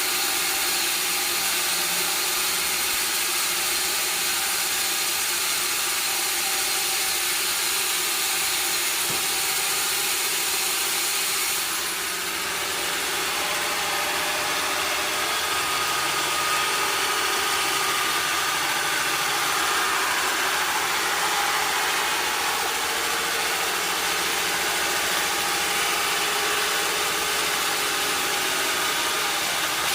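Sawmill machinery running steadily: a continuous engine-like drone with a dense hiss over it. The sound dips briefly and changes character about twelve seconds in.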